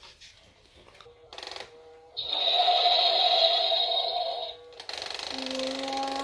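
ZURU Robo Alive battery-powered dragon toy: a loud electronic growl from its speaker lasting about two seconds, then its motor and gears start a steady, whirring whine about five seconds in.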